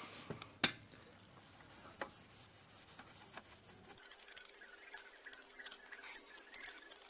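Quiet handling noises: a sharp click about half a second in, a lighter click near two seconds, then faint rubbing with small squeaks.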